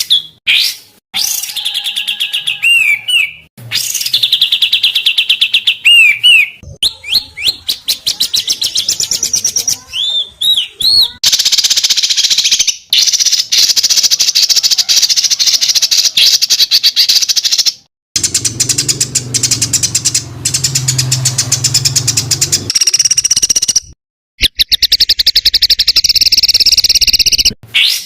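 Spliced recordings of songbirds giving rapid, harsh repeated notes and trills (the 'tembakan' phrases used as tutor song for cage birds), with short breaks where one clip gives way to the next.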